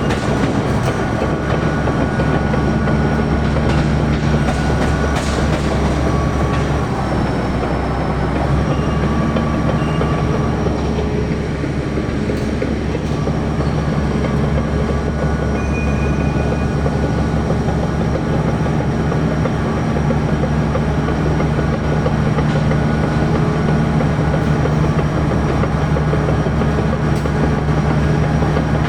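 Heavy machinery running steadily: a deep engine hum under a continuous metallic rattle.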